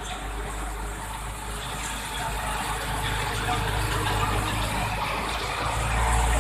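Truck engine running steadily, getting louder about three seconds in and again near the end.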